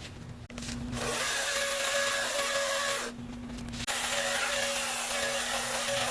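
Greenworks 60-volt battery chainsaw running and cutting into wood. The chain starts biting about a second in, eases off briefly a little past the middle, then goes back into the cut.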